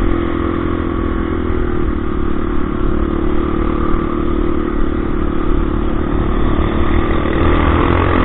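Motorcycle engine running at a steady, even pitch while riding, with road noise underneath.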